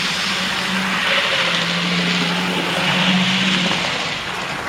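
A machine running loudly and steadily: a rushing noise over a low hum that drops slightly in pitch about a second and a half in.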